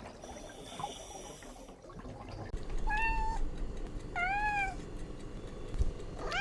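Cat meowing three times, short high-pitched calls; the second one arches up and down.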